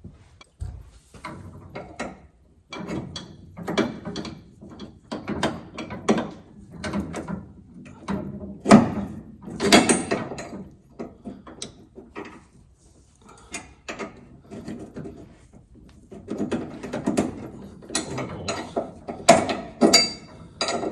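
Hand tools and metal parts being worked on a car: irregular clicking, ratcheting and clattering as bolts and linkage pieces are fitted and tightened.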